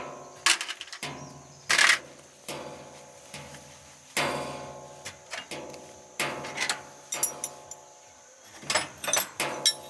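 Metal clanking: about ten irregular strikes of metal on metal, each ringing on briefly as it fades.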